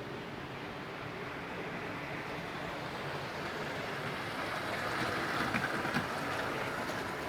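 Model train running on the layout's track: a steady rolling rumble that grows louder and is loudest about five to six seconds in, with a couple of faint clicks.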